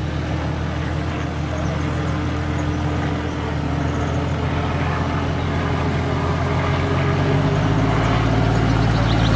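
Off-road 4x4's engine running steadily under load, its pitch stepping up and getting a little louder near the end.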